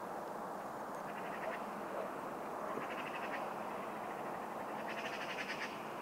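Bird giving rapid chattering calls in three short bursts, the last and loudest near the end, over a steady background hiss of outdoor noise.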